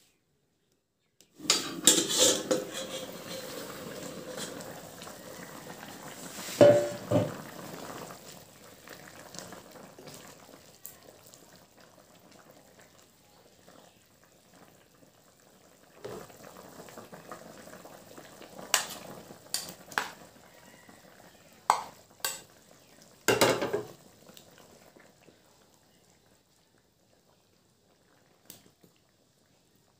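Pork curry sizzling and bubbling in a metal wok while a steel ladle stirs it, clanking against the pan several times. The sizzling starts about a second and a half in and slowly fades away near the end.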